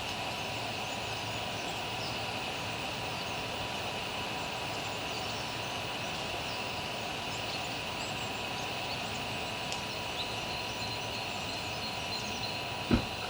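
Steady outdoor background noise with a constant faint high whine and a few faint scattered chirps. One short dull thump comes near the end.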